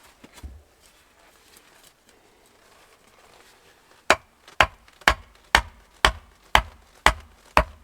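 Eight sharp, evenly spaced blows of a hand tool, about two a second, starting about four seconds in after faint handling noise.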